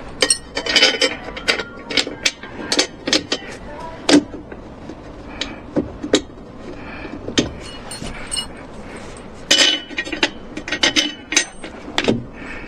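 Irregular clinks and knocks of small hard objects being handled, with a cluster near the start and another near the end.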